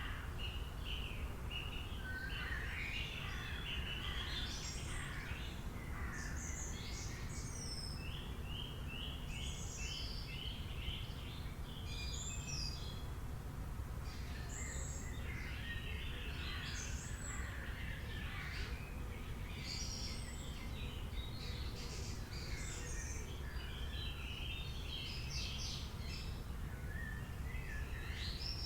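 Several songbirds chirping and trilling, with many short overlapping calls and phrases, over a steady low background rumble.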